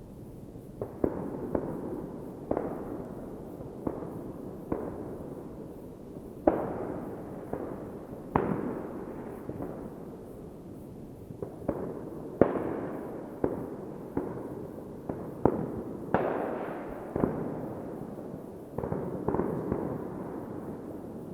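New Year's Eve fireworks: irregular sharp bangs going off about once a second, each trailing a rolling echo, over a continuous rumble of further explosions.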